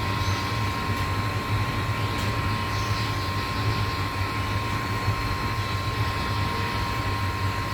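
Steady low hum with a constant thin tone and a noise haze behind it, even in level throughout.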